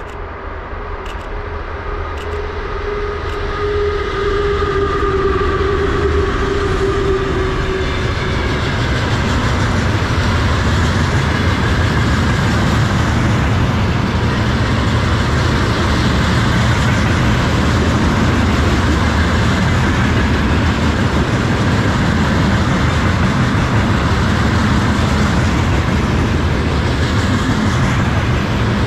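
VL11 electric locomotive coming up and passing with a humming whine that sags slightly in pitch and fades within the first several seconds, followed by a long freight train of tank cars rolling by, a steady rumble of wheels clattering over the rails.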